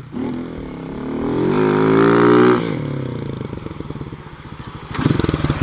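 Motorcycle engine revved up, climbing in pitch to a peak about two and a half seconds in, then the throttle is shut and it drops to a lower, uneven running sound before being revved again near the end.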